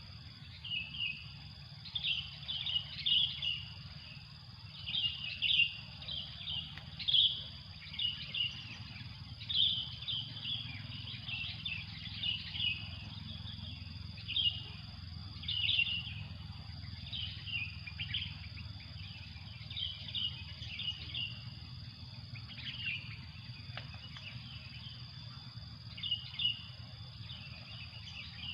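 Birds calling: short chirping phrases repeated about once a second, over a steady high-pitched insect drone.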